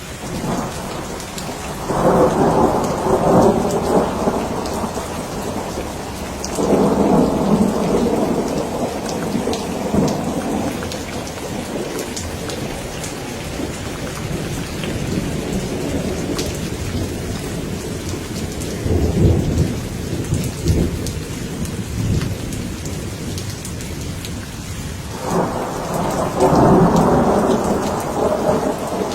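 Steady rain with thunder rolling four times, each roll a few seconds long: the first about two seconds in, the last near the end.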